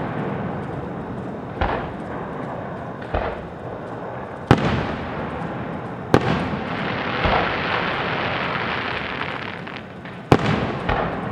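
Aerial fireworks shells bursting: five booms, the sharpest about four and a half, six and ten seconds in, with a continuous rumble and hiss in between.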